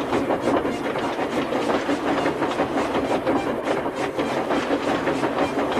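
Steam train running along the rails, a steady stream of quick clacks and chuffs.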